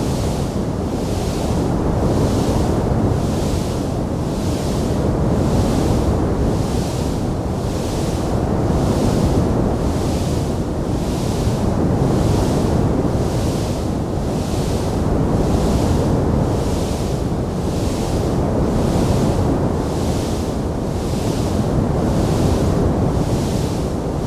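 Wood fire burning in a fireplace: a steady, dense rumble and crackle, with a higher hiss that swells and fades about once a second.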